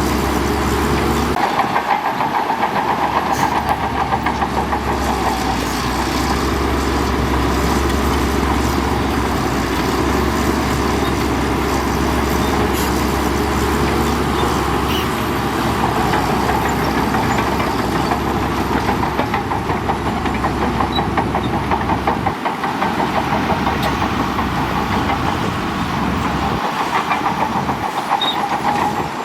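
Heavy diesel earthmoving machinery running continuously under load.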